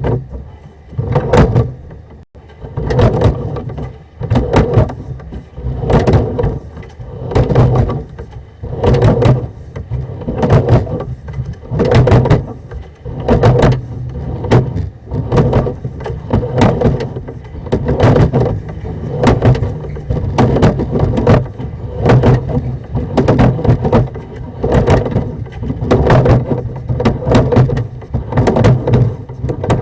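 Sewer push-camera cable being hauled back through the lateral by hand, in rhythmic sliding strokes about once a second, over a steady low hum.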